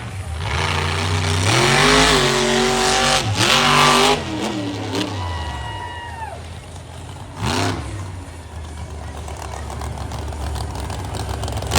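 Monster truck engine revving hard, its pitch climbing and holding high, then falling away about four seconds in. A short rev comes about halfway through, then the engine runs lower and steady.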